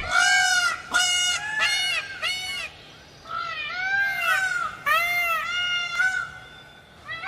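A bird honking repeatedly: a quick run of about a dozen short, arched calls, with a brief lull about three seconds in.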